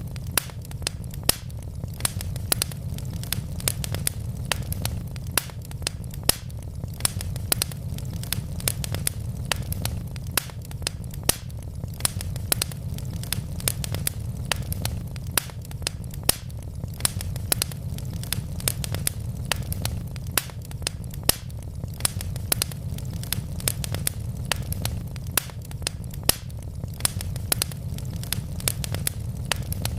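Wood logs burning in a fireplace, crackling with frequent sharp, irregular pops over a steady low rumble.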